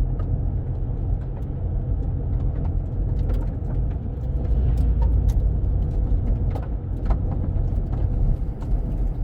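Car driving along a road, heard from inside: a steady low rumble of engine and tyres with scattered small clicks and rattles, busiest in the middle.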